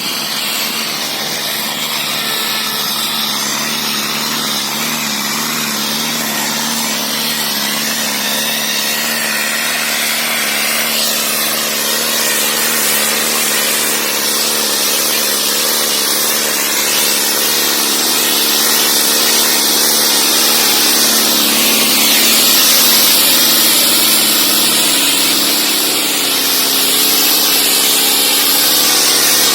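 Powertrac Euro 60 tractor's diesel engine running steadily, gradually getting a little louder.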